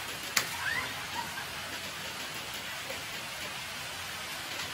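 Steady rain falling on a wet concrete yard, with a single sharp knock about half a second in.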